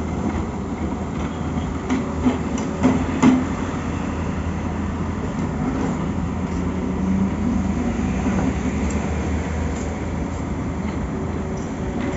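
Excavator's diesel engine running steadily, with a few sharp clanks about two to three seconds in.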